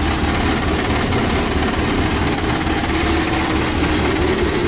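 Chrysler Cordoba's 360 V8 idling steadily at a very low idle, the tachometer reading about 300 rpm, hardly even running.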